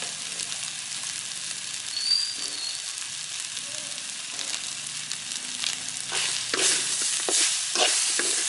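Crocodile meat frying, sizzling steadily, growing louder with sharp crackles from about six seconds in.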